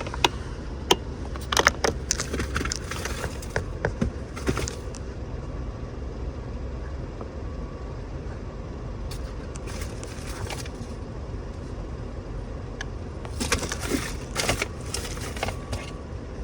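Steady low rumble under scattered clicks and rustles: handling noise. The clicks and rustles come in clusters in the first few seconds and again near the end.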